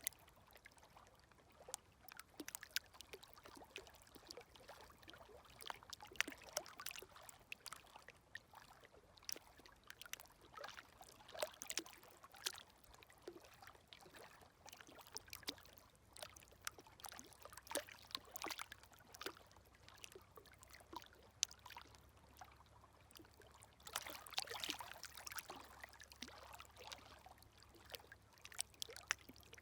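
Faint, gentle micro-waves lapping at a stony shore: water trickling among the stones with many small scattered clicks and crackles. Late on comes a slightly fuller wash.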